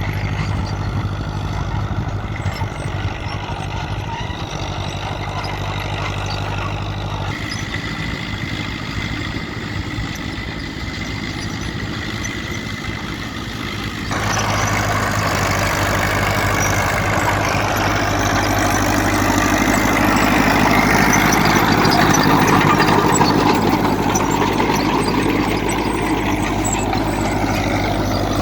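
Fiat 70C tractor's engine running steadily. About halfway through it gets louder and harsher.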